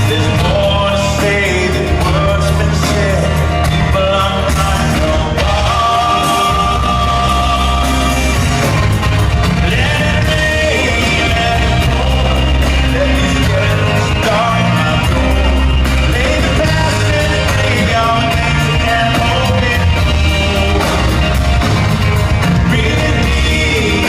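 Live country-rock band playing with a lead vocal, heard loud and boomy in a large venue, with a crowd shouting along.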